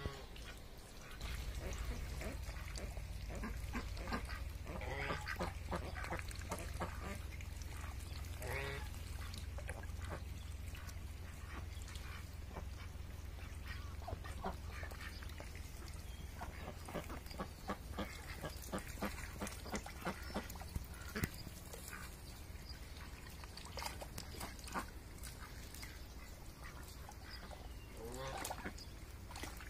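Ducks quacking now and then, with scattered short calls over many small clicks and splashes. A low rumble runs through the first half.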